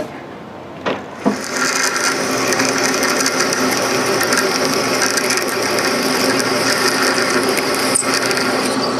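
Two sharp clicks about a second in, then an old belt-driven metal lathe starts and runs steadily with a whirring gear-train sound, its spindle speed turned down for drilling with a 1/2-inch drill.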